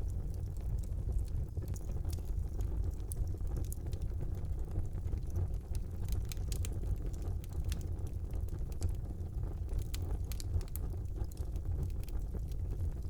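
Wood fire burning in a brick fireplace: a steady low rumble of the flames with frequent small, sharp crackles and pops throughout.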